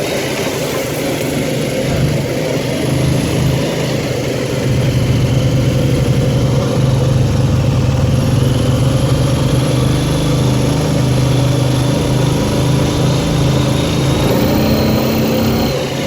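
ATV engine running steadily while riding, getting a little louder about four to five seconds in.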